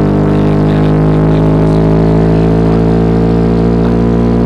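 Car engine with its exhaust off, running loud with a steady, deep drone at constant revs.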